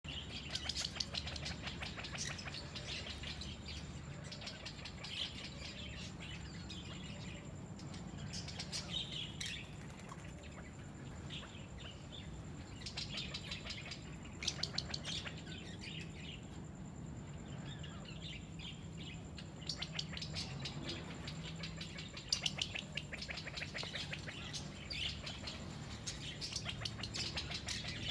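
Small birds chirping and twittering in many short, overlapping bursts, over a steady low hum.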